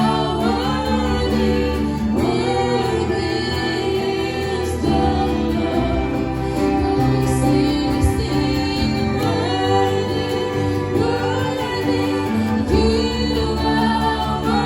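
Christian worship music: a band with singers holding long sung notes over a steady bass accompaniment.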